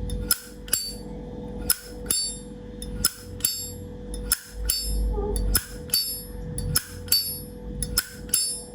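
1965 Zippo lighter's hinged lid flicked open with a metallic ping and snapped shut, about six times in a row. Each cycle is a quick pair of sharp clicks with a ringing tone: the lighter's action sound being shown off as quite nice.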